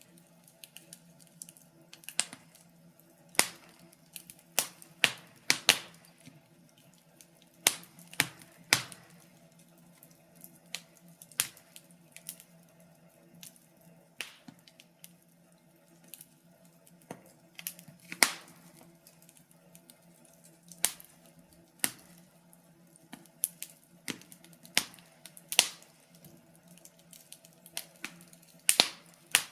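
Wood fire crackling: irregular sharp pops and snaps, some singly and some in quick clusters, over a faint steady low hum.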